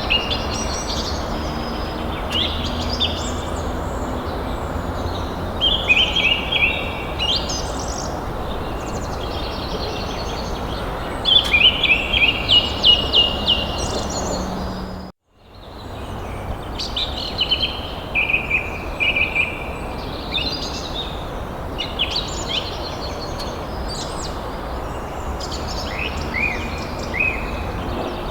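Several songbirds chirping and trilling in quick repeated phrases over a steady outdoor hiss. The sound cuts out for a moment about halfway through, then resumes.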